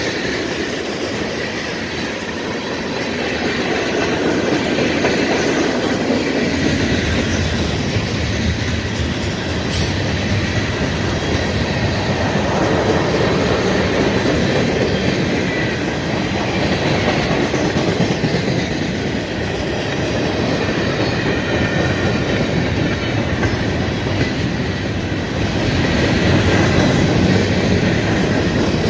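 Mixed freight train's cars rolling past, the wheels clattering steadily over the rails.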